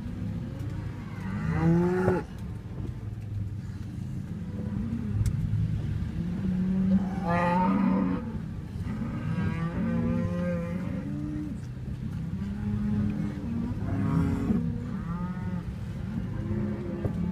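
A herd of cattle mooing, many animals calling over one another in a continuous low chorus, with louder, longer calls standing out every few seconds.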